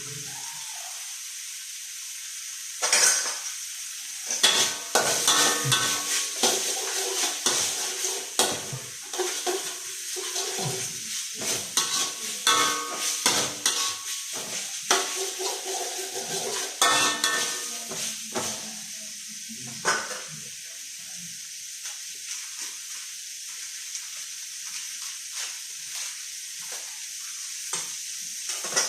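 Fried rice sizzling in a hot pan while a spatula stirs it. For most of the first twenty seconds there are busy scrapes and clanks of the spatula against the metal pan, some of them ringing. After that the sizzling carries on with only occasional light taps.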